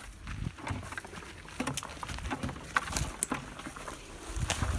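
Footsteps through dry grass and leaves: irregular rustling and light crackling clicks over a low rumble.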